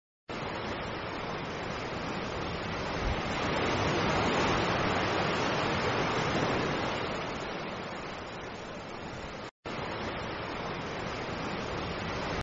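Sea water rushing, a steady surf-like wash that swells in the middle and eases off. It breaks off for an instant about nine and a half seconds in, then carries on.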